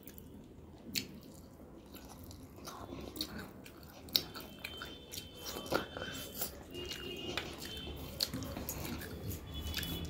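Close-up chewing of rice and chicken curry eaten by hand, with many short wet mouth clicks scattered throughout.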